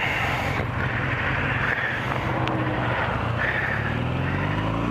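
Motorcycle engine running on the move, with a steady rush of wind and road noise. Near the end the engine note climbs as the bike accelerates.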